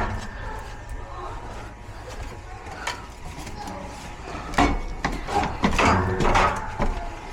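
Irregular wooden knocks and clunks, loudest in a cluster a little past halfway, over a steady low hum.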